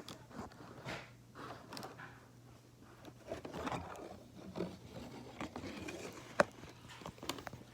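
Handling noise close to the microphone: irregular rustling and scraping with small clicks, and one sharper click about six and a half seconds in, as the camera is being repositioned.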